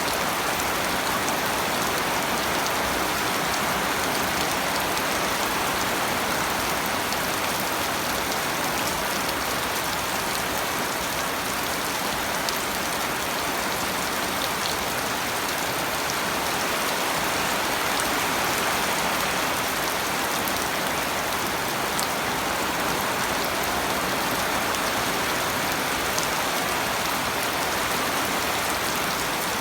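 Steady rain falling on a surface, an even hiss with a few faint drop ticks.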